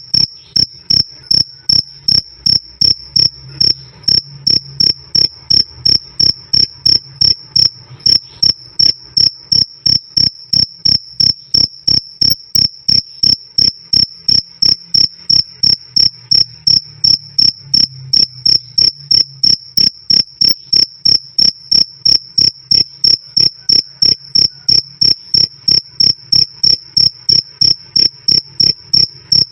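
Cricket chirping loudly and steadily, one high clear chirp repeating evenly about three times a second.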